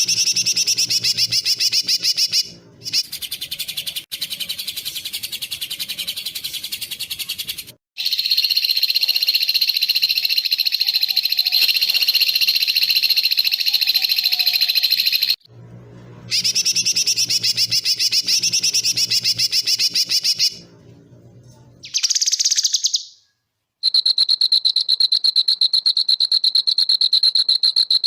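Bird-training (masteran) recording of small songbirds' rapid, harsh high trills and chirps, spliced into short clips that start and stop abruptly with brief silences between. About 24 seconds in, it changes to a steady, high, cricket-like trill.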